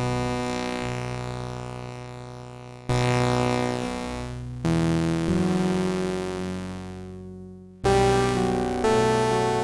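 Sequential OB-6 polyphonic analog synthesizer played dry with a cross-modulation (X-Mod / poly mod) patch. Five chords are struck in turn, each one fading away.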